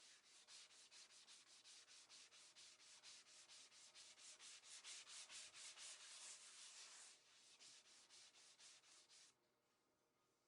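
Wood being hand-sanded in quick, even back-and-forth strokes, about four or five a second, stopping near the end.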